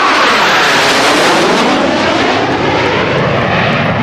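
Northrop Grumman EA-6B Prowler's twin turbojet engines passing loud overhead, the pitch sliding down as the jet goes by and the hiss of the upper end thinning after about two seconds.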